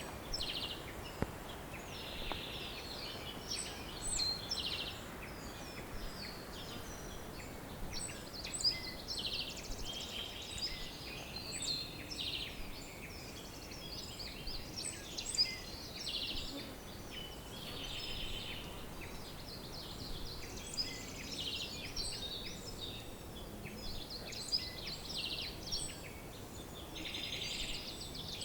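Several birds singing and calling at once: many short chirps and rapid trills overlapping, over a steady low background noise.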